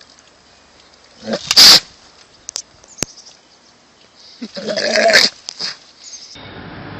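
An animal making two short noisy calls. The first, about a second and a half in, is hissy and breathy. The second, louder and more voice-like, comes about five seconds in.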